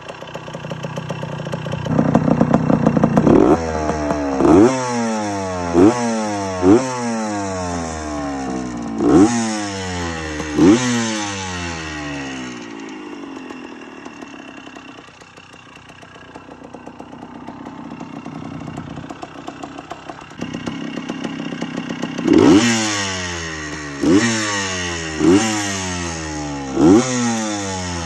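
1984 Suzuki PE175's single-cylinder two-stroke engine running and being revved in short blips, each rising sharply and falling back: about five in the first half, then it drops back to idle, then four more near the end.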